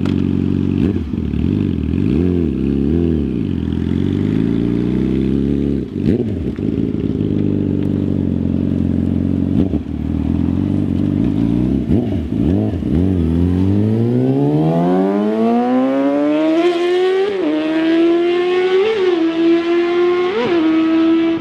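Yamaha R6 inline-four engine running through a Toce Performance MotoGP-style single-tip exhaust: idling with a few short throttle blips, then about two-thirds of the way in revving up in one long rise to high revs, held there with quick throttle flicks.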